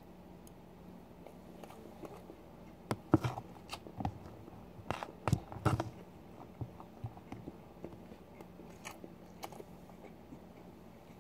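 A person chewing a spoonful of macaroni goulash close to the microphone, with wet mouth clicks and smacks that bunch together between about three and six seconds in, then go on more lightly.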